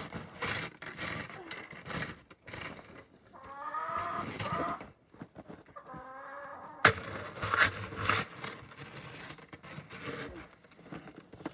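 Chickens calling, two drawn-out pitched calls in the middle, amid scuffling and clattering, with one sharp knock about seven seconds in.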